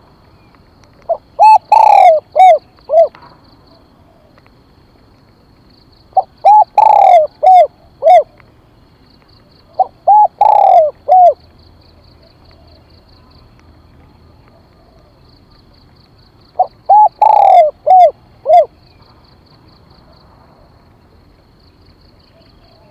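Spotted dove cooing: four phrases spaced a few seconds apart, each a short note, a longer, stronger coo and two or three quick closing notes.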